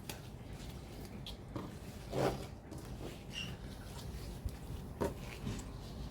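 A few separate light rustles and taps of a cross stitch kit's packaging and contents being handled, the loudest about two seconds in.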